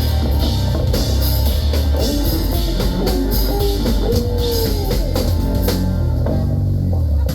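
Live rock band playing at full volume, with a driving drum kit, guitar and heavy bass. The band stops suddenly right at the end, closing the song.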